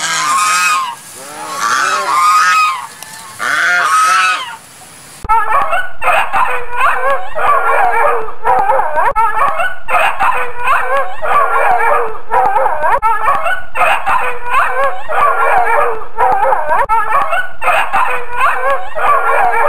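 Swan cygnets calling in short, separate, repeated calls. About five seconds in, the sound cuts abruptly to a dense, unbroken chorus of animal calls that runs on.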